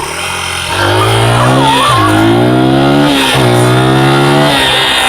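Dirt bike engine accelerating through the gears. Its pitch climbs, drops sharply twice as the gears change, and climbs again each time.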